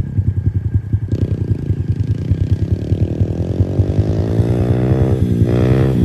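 Pit bike engine running with a steady putter, then revving up gradually through the middle, dropping back briefly near the end and picking up again.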